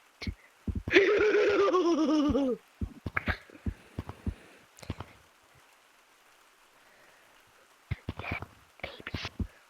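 Toys being handled, with a string of small clicks and taps, and a wavering pitched vocal sound, about a second and a half long, starting about a second in.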